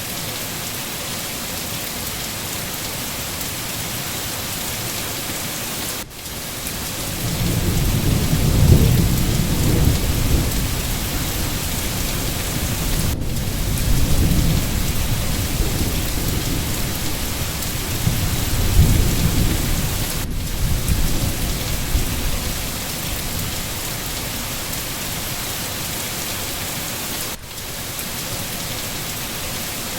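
Steady heavy rainfall, with a long low roll of thunder coming in about seven seconds in, swelling three times and dying away after about twenty-three seconds. The rain briefly drops out every seven seconds or so.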